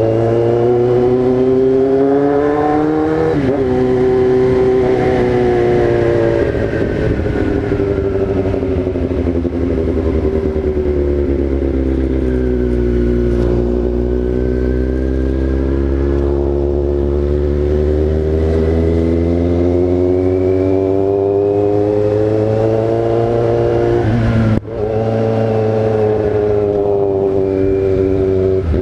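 Yamaha XJ6 inline-four motorcycle engine running on the move. Its pitch climbs in the first few seconds, breaks briefly at a gear change, then sinks slowly before building again over several seconds. A sudden brief cut near the end marks another shift.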